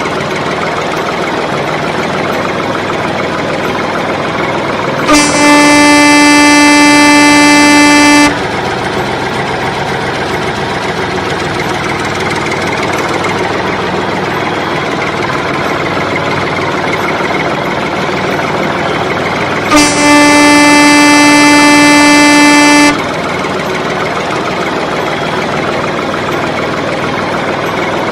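A vehicle horn sounds twice, each a long steady blast of about three seconds, over a constant rumbling noise.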